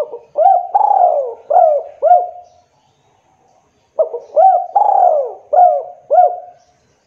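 Spotted dove (tekukur) cooing: two phrases of about five rising-and-falling coos each, the second starting about four seconds in after a short pause.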